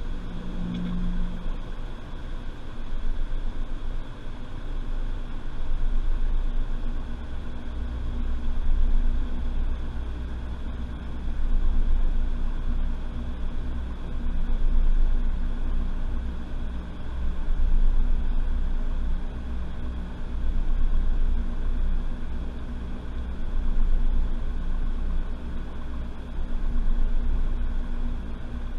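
Washing machine running, heard from inside the drum: a steady low rumble and motor whine that swells and fades about every three seconds as the drum turns.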